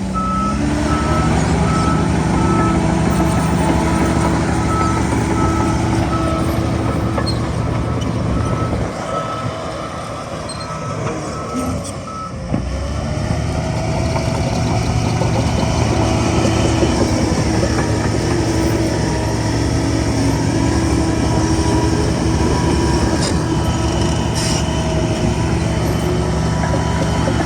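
Heavy diesel earthmoving machinery running with a reverse alarm beeping steadily, about once a second, for roughly the first twelve seconds. The engine eases off briefly, then picks up again about halfway through.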